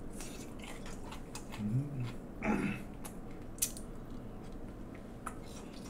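A person chewing a mouthful of food, with small wet mouth clicks, and a short hummed "mm" about two seconds in.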